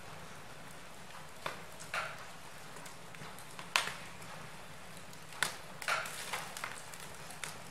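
Wood fire crackling in a fireplace: irregular sharp snaps and pops from the burning logs over a steady soft hiss, the loudest pop a little under four seconds in.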